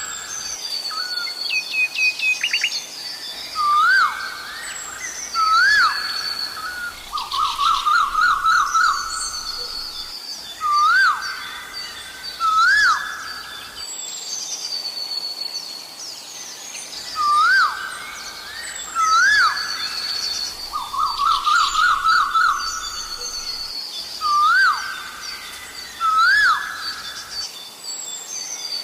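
Asian koel calling: a loud, rising two-part 'ko-el' repeated roughly every two seconds, broken twice by a quick run of rising notes. Other small birds chirp at a higher pitch behind it.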